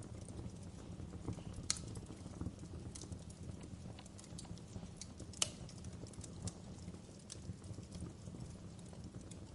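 Wood fire crackling in a fireplace: a low, steady rumble of flame under frequent small pops and clicks, with two louder snaps, one a little under two seconds in and one about five and a half seconds in.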